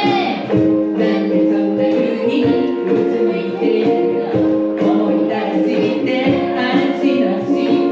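Three ukuleles strummed in a steady rhythm while the players sing together.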